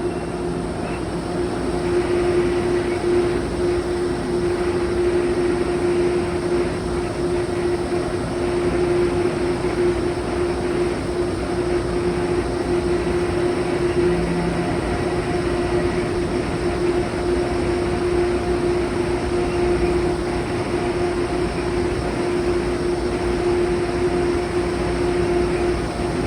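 Steady hum of a train standing at a platform: a constant mechanical drone with one held mid-pitched tone over it.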